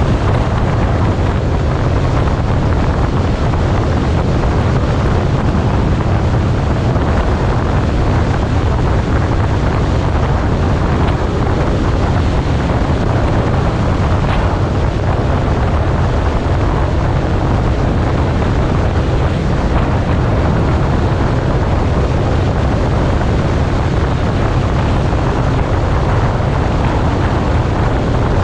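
Steady wind noise rushing over the microphone of a motorcycle moving at speed, a loud low rumble that holds unchanged throughout.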